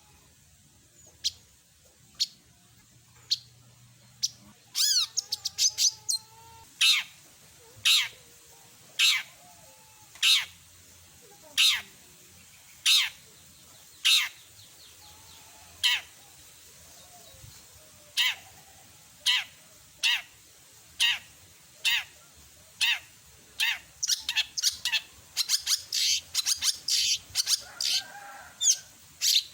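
Long-tailed shrike (cendet) calling with short, sharp, high notes, about one a second, breaking into a fast run of notes near the end. Softer warbling notes sound underneath early on.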